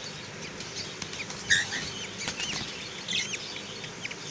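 Budgerigars chirping in short, scattered calls, the loudest about a second and a half in, over a faint steady low hum.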